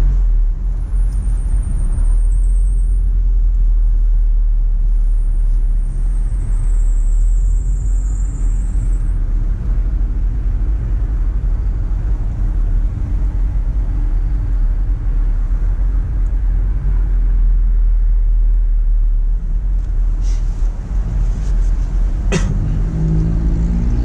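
Engine and road noise inside a Volkswagen Jetta's cabin while it is driven: a steady, heavy low rumble. A high wavering whine runs through the first nine seconds or so, a sharp click comes about 22 seconds in, and the engine revs up near the end.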